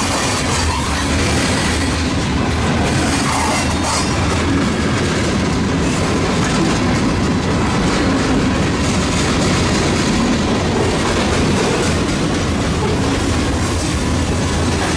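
Freight cars of a passing mixed freight train (covered hoppers, boxcars, tank cars) rolling by close at hand: a steady, loud rumble of steel wheels on the rails.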